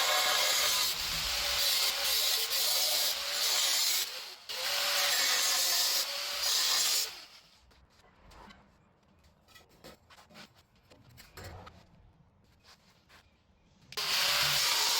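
A power tool cutting through the exhaust pipe to take off the resonator. It runs in long passes with a brief dip about four seconds in, stops for several seconds with only faint clicks, and starts cutting again near the end.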